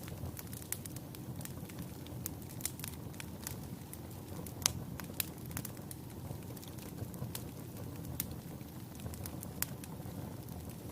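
Wood fire burning in a fireplace: a steady low rumble of flames with sharp, irregular crackles and pops from the burning logs, one pop standing out about halfway through.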